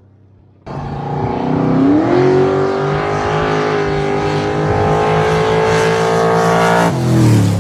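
Gasser-style drag car's engine cutting in abruptly under a second in, revving up over about a second and then held at a high, steady pitch under hard acceleration for about five seconds before the revs drop off sharply near the end.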